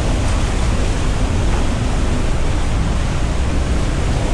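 Steady rush of flowing water in a canyon stream, an even noise that holds at one level throughout.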